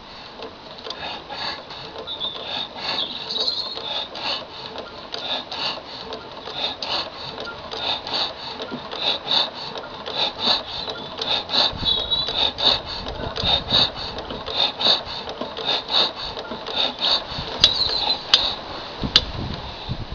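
Twin-cylinder Lister CS diesel stationary engine running slowly, with a steady beat of about three pulses a second. The owner finds its number two cylinder still a little weaker than number one, which he suspects is due to a poor injector spray. A few sharp clicks come near the end.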